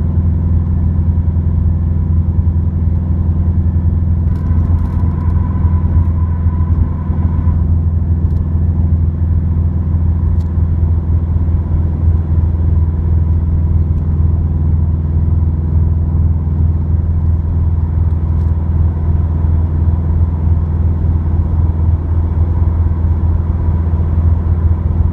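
Exhaust drone of a Subaru WRX with an Invidia N1 dual cat-back exhaust, heard inside the cabin at a steady freeway cruise: a constant low hum. A faint higher whine joins for a few seconds about four seconds in.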